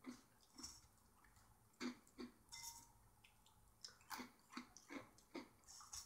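Faint, irregular crunching and chewing of dry chocolate-flavoured wheat and rice cereal shapes.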